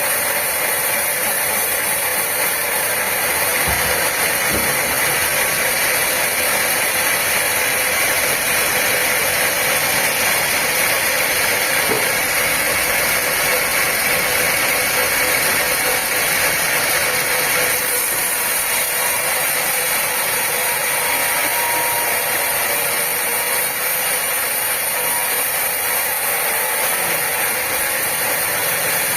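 Sawmill machinery running steadily: a continuous mechanical hiss and hum without pauses or changes in level.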